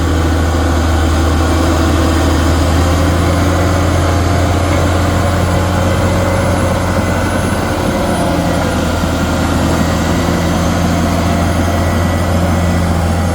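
Caterpillar D6R XL bulldozer's diesel engine running steadily, a deep even drone.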